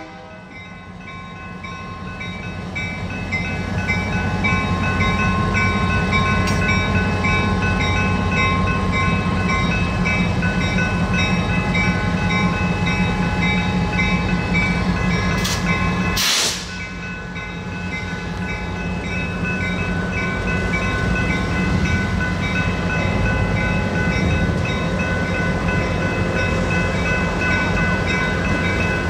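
Passenger train running by, a steady rumble of wheels on the rails with a high ringing that repeats regularly. Just past the middle the sound breaks off sharply and builds up again.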